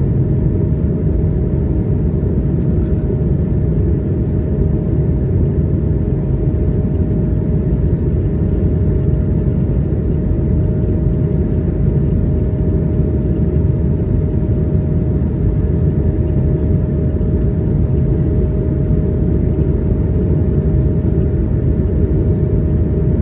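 Steady cabin roar of an Airbus A220-100 in its climb: a low, unbroken rumble of its Pratt & Whitney PW1500G geared turbofans and airflow, with a steady hum on top.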